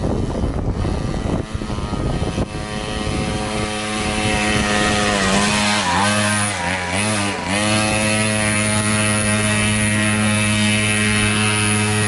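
A 50cc mini moto engine running at high revs with a steady drone. The pitch drops and recovers a few times around the middle as the throttle is eased and reopened.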